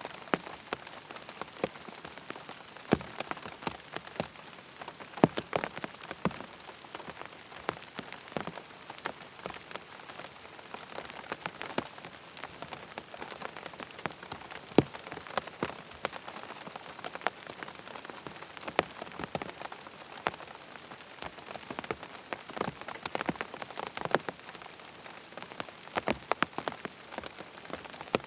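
Steady rain falling, an even hiss dotted with many sharp, irregular drop ticks.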